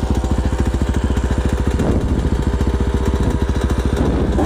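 Dirt bike's single-cylinder engine idling steadily with a rapid, even pulse.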